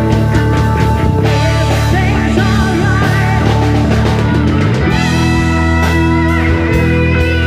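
Live rock band playing loudly, with guitar to the fore over bass and drums; the harmony shifts about five seconds in.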